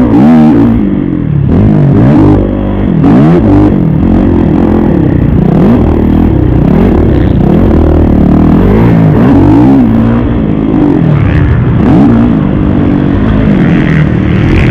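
Kawasaki KX450 motocross bike's four-stroke single-cylinder engine revving hard while being ridden, its pitch climbing and dropping again every second or two as the rider works the throttle.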